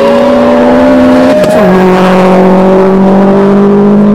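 Subaru Impreza WRX's turbocharged flat-four engine driven hard at high revs. Its pitch climbs slightly, drops sharply about a second and a half in, then holds steady at the lower pitch.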